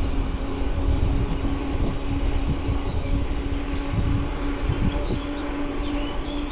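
Riding noise from an e-mountain bike: wind rumbling on the mounted camera's microphone and tyres rolling, with a steady hum running under it and a few faint high chirps.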